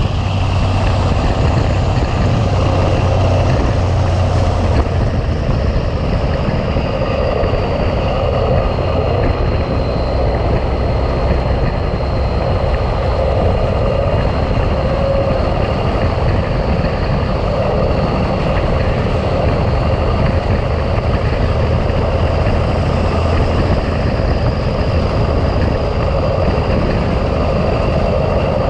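Big Cam Cummins inline-six diesel in a 1986 Ford LT9000 tractor running steadily under way while hauling a loaded trailer, its low drone mixed with road noise. A faint high whine sits above it.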